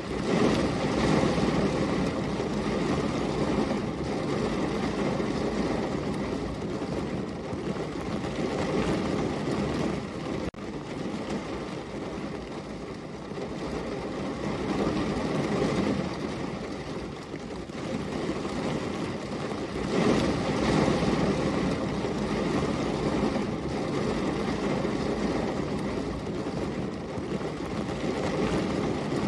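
Heavy rain falling, a steady rushing noise that swells and eases, with a brief dip about ten seconds in.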